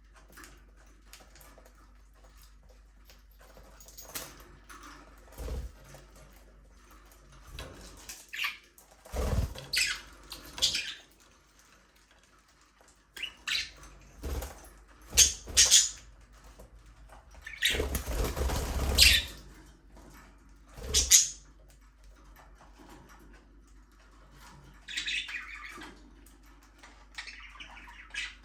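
Budgerigars chirping in short, scattered calls, with bursts of wing flapping as they fly, the longest lasting about a second and a half about two thirds of the way through. Chirping picks up again near the end.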